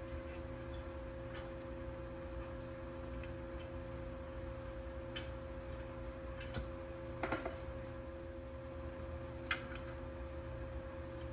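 A few light, sharp metallic clicks and taps of small parts being handled, with a short cluster about seven seconds in, over a steady low hum.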